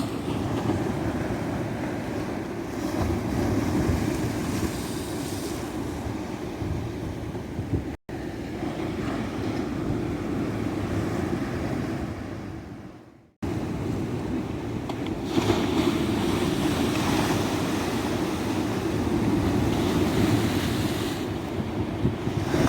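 Tropical ocean waves breaking and washing up a beach, a steady surf with swelling surges, with wind buffeting the microphone. The sound drops out for an instant about eight seconds in, then fades away and snaps back about thirteen seconds in.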